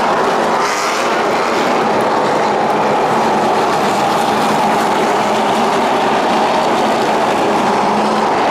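A field of NASCAR Camping World Truck Series trucks' V8 engines running together at pace speed before the race start, making a steady, continuous drone.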